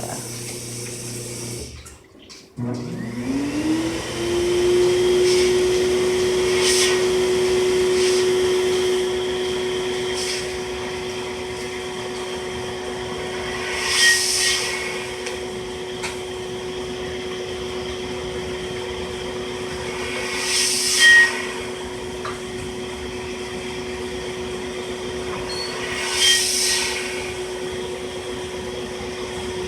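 Small electric eyeglass-and-jewelry cleaning machine starting up. Its motor hum rises in pitch over the first few seconds, then runs steadily, with three short hissing bursts over it.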